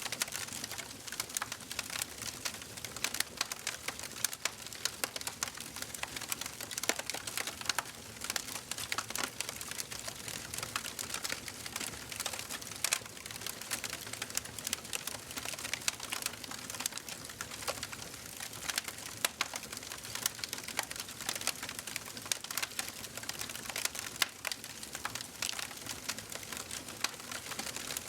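Wood fire in a fireplace crackling: dense, irregular sharp pops and snaps over a soft steady hiss of the flames.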